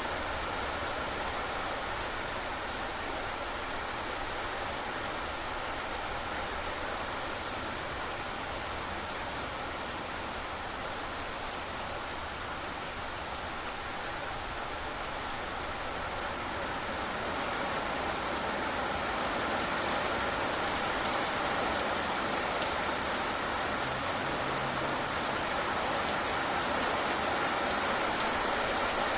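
Steady rain falling, with scattered single drops ticking sharply; it grows slightly louder about two-thirds of the way through.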